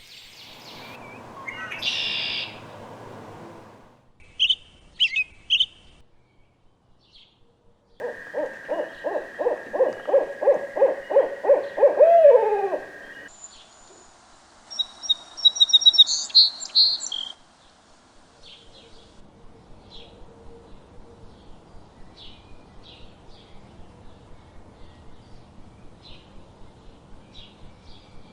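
Barred owl calling in a rapid series of low hoots about eight seconds in, ending in a drawn-out falling note. Short bursts of high songbird chirps come before and after it, and a faint, even run of high chirps fills the last ten seconds.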